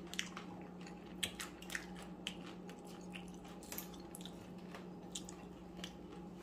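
A person chewing crunchy nacho tortilla chips with the mouth closed: soft, irregular crisp crunches, several to a second at times.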